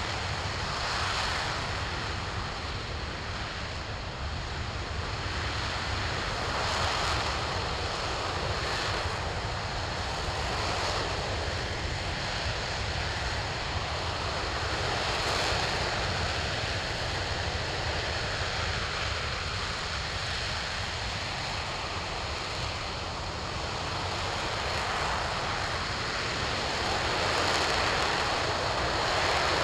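RS-25 liquid-hydrogen/liquid-oxygen rocket engine firing steadily on a ground test stand: a continuous, even rushing noise that swells and eases slightly every few seconds.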